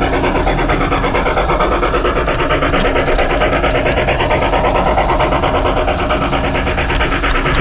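LGB Mogul G-scale model steam locomotive running along garden track, a steady, fast, even clatter.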